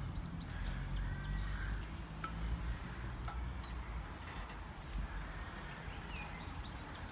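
Birds chirping in short calls, about a second in and again around six seconds, over a steady low rumble, with a couple of faint clicks near the middle.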